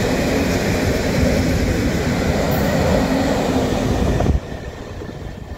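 Empty open-top coal wagons rolling past close by: a loud, steady rumble and rattle of wheels and car bodies. About four seconds in it cuts off abruptly to a much quieter background rumble.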